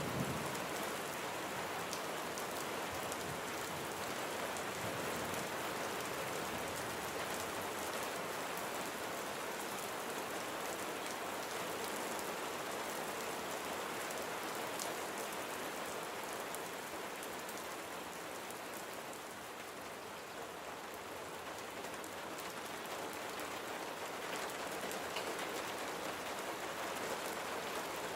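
Steady rain falling on surfaces, an even hiss with faint scattered drop ticks.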